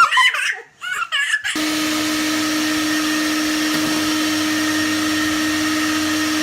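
A high-pitched squealing voice for about a second and a half, then an abrupt switch to a small electric motor running steadily with a constant hum.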